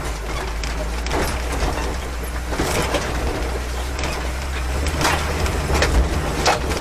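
1982 Jeep CJ7's engine running with a low, steady rumble as it crawls over rocky ground. Sharp knocks and clunks come every second or so as the body and suspension jolt over rocks. Near the end the engine note drops away suddenly, as when the engine stalls.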